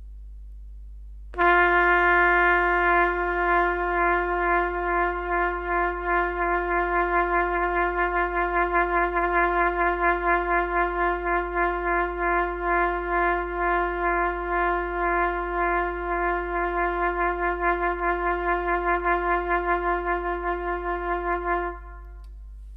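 A single brass instrument holds one long note with jaw vibrato, a pulsing wobble that starts slow and gradually speeds up before the note stops near the end.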